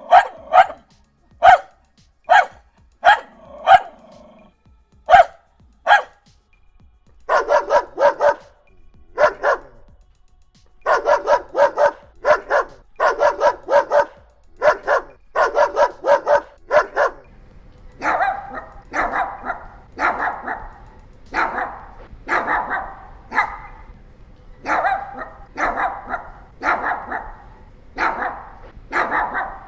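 Dogs barking in a series of separate recordings. First come single sharp barks about once a second, then rapid bursts of several barks at a time. From about two-thirds of the way in, a different set of barks comes about once a second over a faint steady background hiss.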